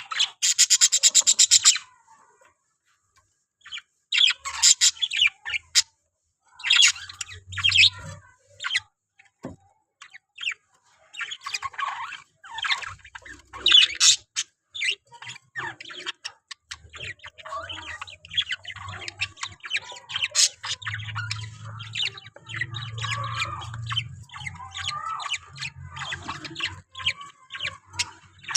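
Pet budgerigars chirping and chattering in quick irregular bursts, opening with a loud buzzy call that lasts about two seconds.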